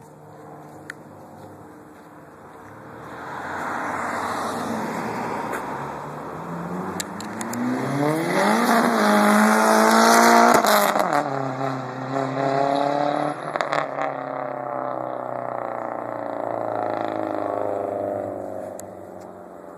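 Nissan 200SX with a straight-piped exhaust, its engine revved: the note climbs steeply to a peak about halfway through, drops, holds briefly, then settles back toward idle near the end.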